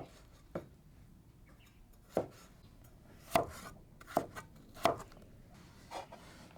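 Knife chopping on a cutting board: about seven separate chops, irregularly spaced, with pauses of up to a second or more between them.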